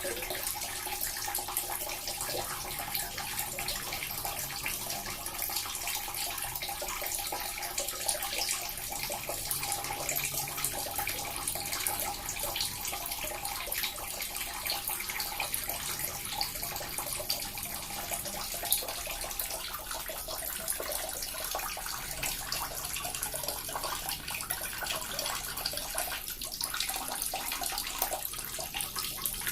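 Small water fountain running steadily, a continuous trickling and splashing of falling water.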